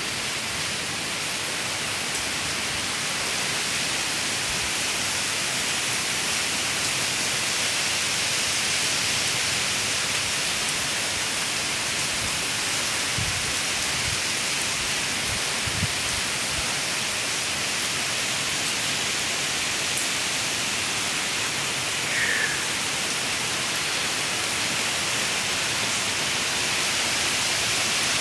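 Steady rain falling, an even hiss with no let-up. A brief faint chirp sounds about two-thirds of the way through.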